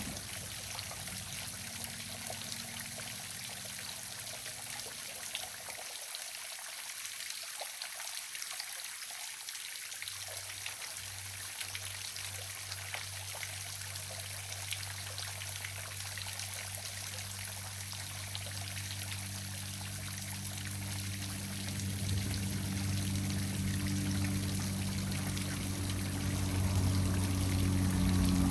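Small waterfall splashing and trickling steadily. About a third of the way in a low steady hum comes in, growing louder toward the end.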